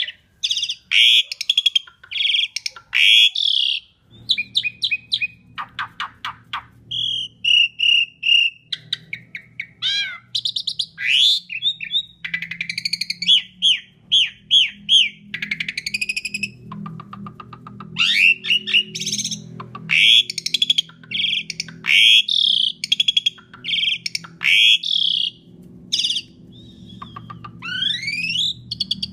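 Asian pied starling singing a long, varied song of rattling clicks, repeated short notes and rising and falling whistles in quick succession. A faint low hum sits underneath from about four seconds in.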